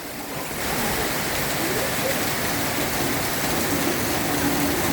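Heavy tropical rain pouring down, a steady hiss that grows louder about half a second in.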